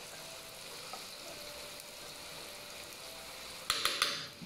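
Chili paste frying in oil in a wok, with a steady sizzle throughout. Near the end come a few quick sharp scrapes and clinks of a metal spatula against the wok.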